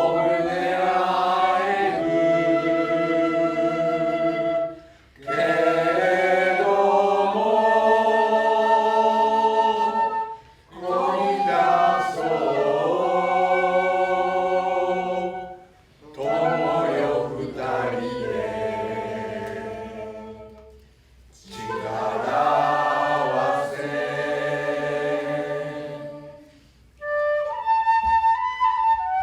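A group of voices singing together in phrases about five seconds long, with short breaks between them; a flute comes in near the end.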